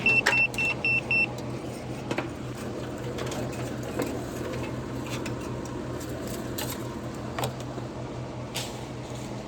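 Digital multimeter beeping about six times in quick, even succession, a high-pitched warning that it is about to switch itself off after being left on. A steady low hum and a few faint clicks run underneath.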